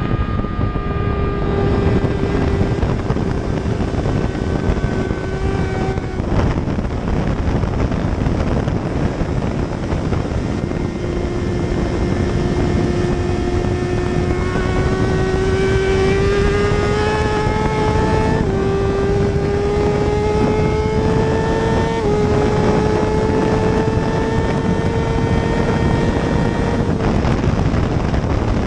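Superbike engine at high revs with a rush of wind: it eases off about six seconds in, then climbs in pitch through the gears, with upshifts at about 18 and 22 seconds, and backs off near the end.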